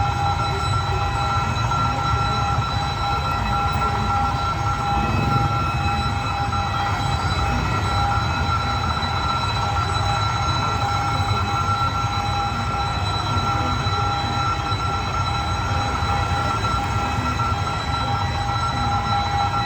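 Passenger train carriages rolling past with a steady low rumble, over a continuous high-pitched ringing tone that holds one pitch throughout.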